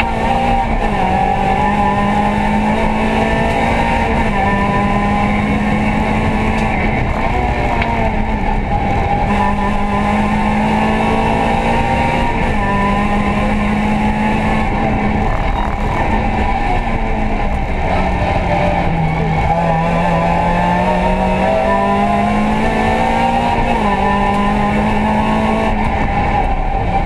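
Toyota Yaris A5 rally car's engine heard from inside the stripped cabin, driven hard on a stage. Its pitch repeatedly climbs and then drops back as it pulls through the gears, over steady road and tyre noise.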